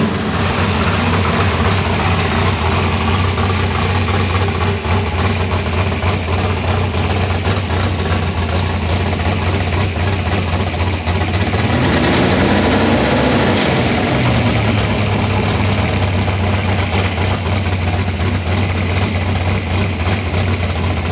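Rebuilt 305 small-block Chevy V8 with open headers idling steadily and loud, while its ignition timing is checked. About twelve seconds in, the pitch briefly rises and falls, then settles back to idle.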